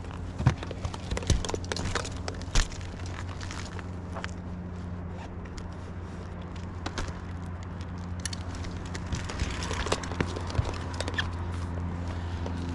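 Scattered knocks and clicks of handling, loudest in the first few seconds, over a steady low hum.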